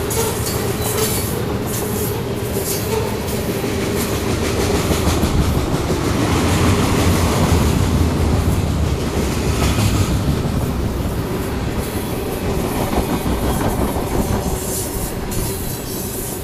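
Freight train cars (covered hoppers, boxcars and tank cars) rolling past: a steady rumble of steel wheels on the rails with repeated clacks, loudest about halfway through.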